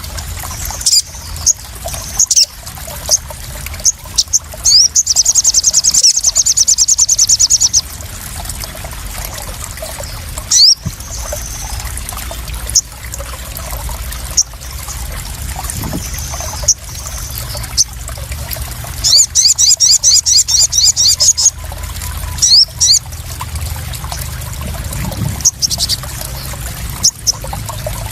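Crimson sunbird (sogon) calling: sharp high chirps and two rapid, high-pitched trills lasting a few seconds each, over a steady trickle and splash of water.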